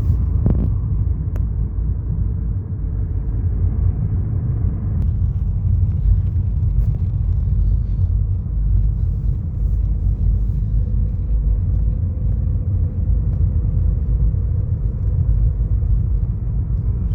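Steady low rumble, with a couple of faint clicks about a second in.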